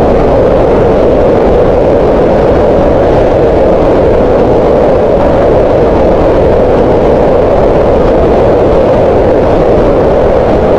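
Green noise: a loud, steady synthetic hiss with its weight in the middle pitches, unchanging throughout.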